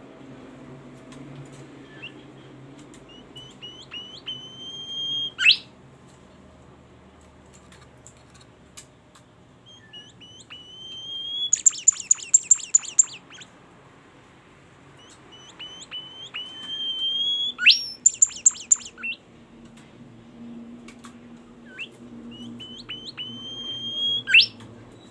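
A songbird singing its loud 'tembakan' phrase four times: a few short notes and a rising whistle that end in a sharp, loud note. Twice the phrase runs into a fast rattling trill.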